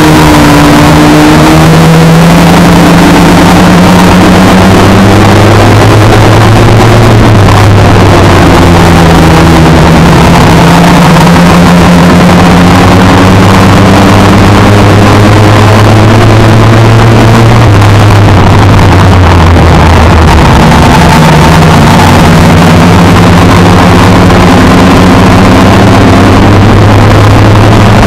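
Race car engine heard from inside the cockpit, so loud the recording is overloaded. Its pitch sinks and climbs again a few times as the car lifts off and accelerates around the oval.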